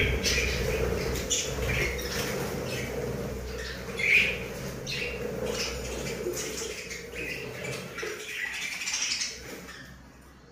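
Budgerigars chirping and chattering in short, scattered calls, with one louder call about four seconds in.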